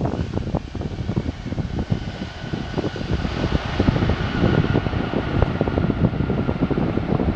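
Jet airliner engines rumbling with a crackling roar, and a faint whine slowly dropping in pitch.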